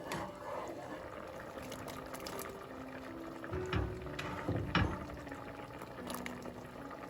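Liquid being poured or stirred in a pot, with two sharper knocks in the middle, over background music with held notes.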